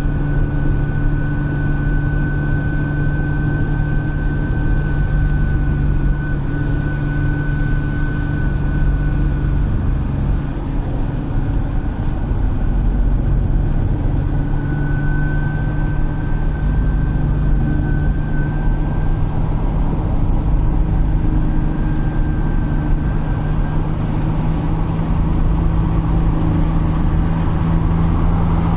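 Vehicle engine droning at a steady cruise, heard from inside the cabin while driving, with a thin steady high-pitched whine over it.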